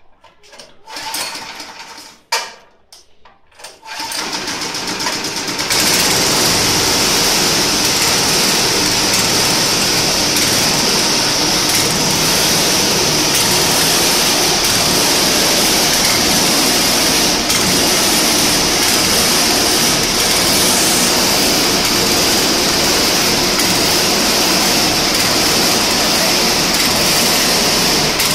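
Homemade corn sheller and cob crusher machine starting up about four seconds in and then running steadily with a constant high whine. A few knocks and clatters come before it starts.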